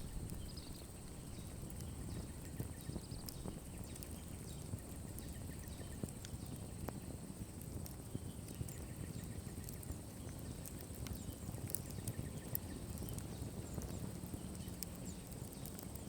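Wood campfire burning down: a steady low rush of flames with frequent small crackles and pops.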